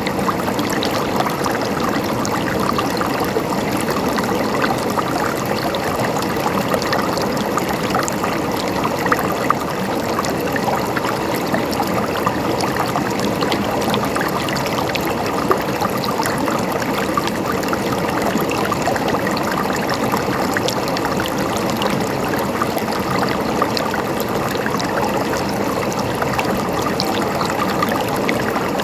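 Mountain stream running and trickling steadily over rocks, with small splashes and gurgles throughout.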